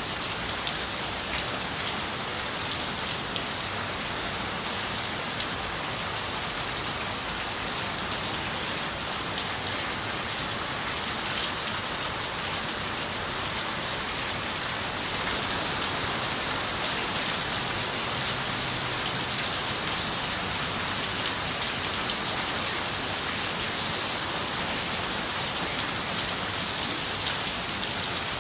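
Steady rain falling on a window: a dense, even hiss with small drops ticking through it, growing a little louder about halfway through.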